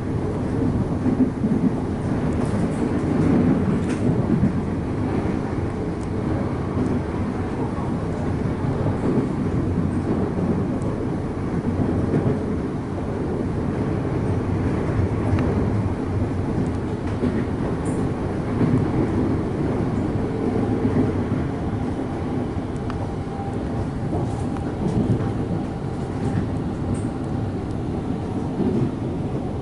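Electric suburban train running at speed, heard from inside the carriage: a steady rumble of wheels on rail with a few faint clicks.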